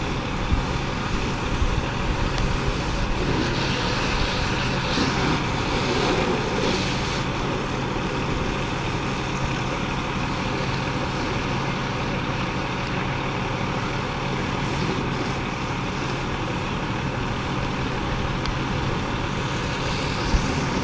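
Fire engine's motor running steadily, a low hum with road and street noise around it, swelling briefly a few seconds in.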